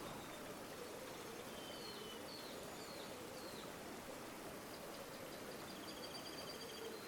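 River water flowing steadily, with small birds calling faintly over it: a few short chirps in the first half and a rapid high trill near the end.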